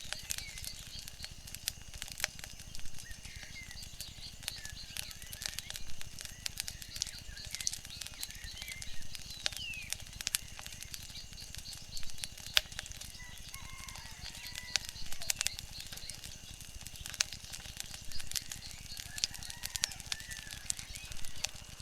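Wood fire crackling, with frequent sharp irregular pops over a steady hiss, and short bird chirps scattered through it.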